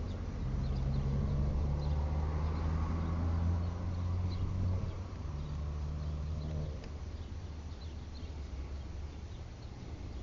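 Low, steady hum of a vehicle engine running, which drops away about seven seconds in, with faint short bird chirps over it.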